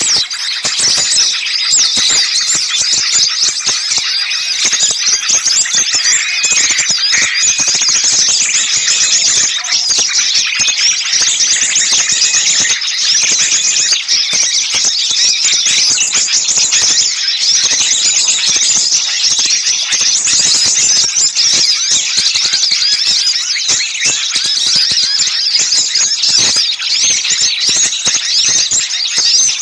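Dense, loud chorus of many small songbirds calling and chattering at once in high-pitched chirps. It is an agitated mixed-species 'noisy' bird-lure recording, the kind of alarm chorus played to draw wild birds in.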